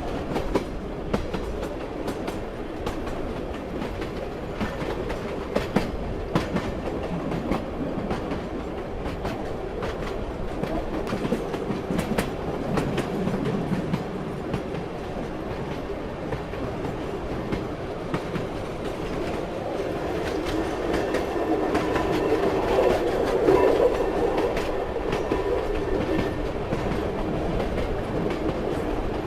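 Train running steadily, its wheels clacking over the rail joints in an irregular run of clicks over a continuous rumble. A faint high tone runs for a few seconds after the middle, and the rumble swells slightly near the end.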